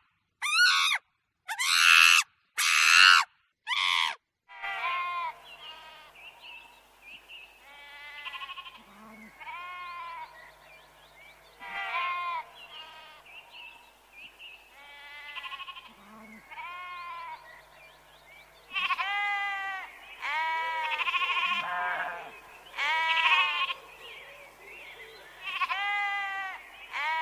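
A run of loud, shrill cries in quick succession for the first four seconds, then repeated wavering bleats of goats or sheep, which grow louder about two-thirds of the way through.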